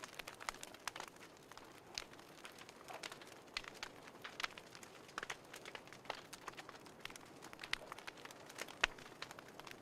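Fireplace crackling: irregular sharp pops and snaps over a faint hiss, with one louder pop near the end.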